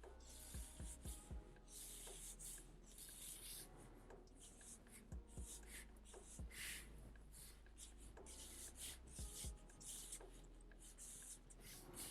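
Pencil drawing on paper: faint, repeated short scratching strokes.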